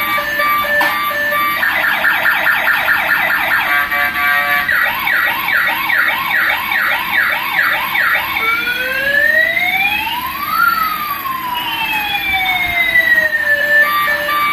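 Toy police car's electronic sound unit cycling through siren patterns: a rapid chirping yelp, then a run of short falling whoops about two a second, then slow rising and falling wails. A beeping electronic jingle plays at the start and again near the end.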